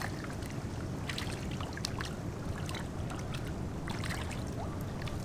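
Small, scattered splashes and drips of pool water over a steady low rumble.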